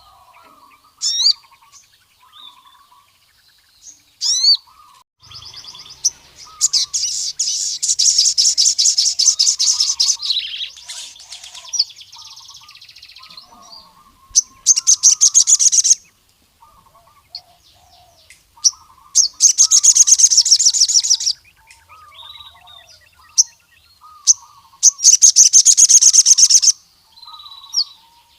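A male sogon (crimson sunbird) singing in full song: sharp high chirps broken by loud, fast high-pitched trills lasting a few seconds each, about four times. Softer twittering notes run underneath.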